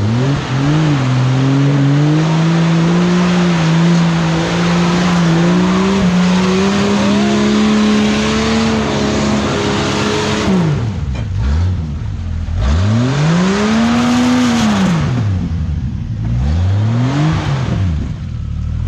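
Jeep Cherokee XJ engine revving hard under load off-road, held high and steady for about ten seconds over a loud rushing noise. It then drops and is blipped up and down several times.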